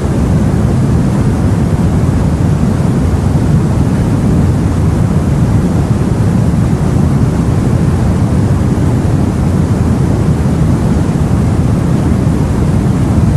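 Steady, low rumbling sea noise, like wind and water heard from aboard a boat, with no single wave or event standing out.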